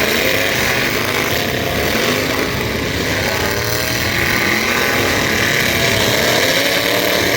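Several demolition derby trucks' engines revving hard at once, their pitches rising and falling over one another above a dense, steady rumble.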